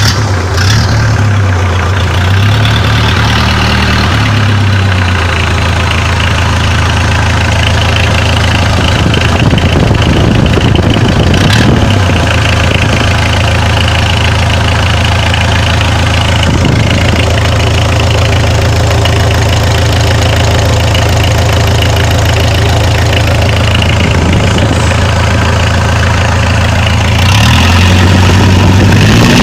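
Freshly overhauled Mitsubishi 4D56 turbodiesel four-cylinder engine idling steadily, its speed rising near the end.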